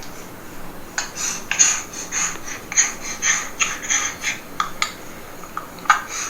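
Recorded baby laughter and happy yells played through the small speaker of a Still Moments Nursery Baby Talker, a reborn-doll sound box. The laughter comes in short breathy bursts, two or three a second.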